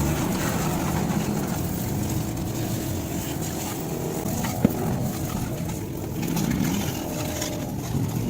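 Small 12-volt diaphragm pump of a portable 100 PSI washer running steadily while water hisses from its spray gun, with one sharp tick about four and a half seconds in.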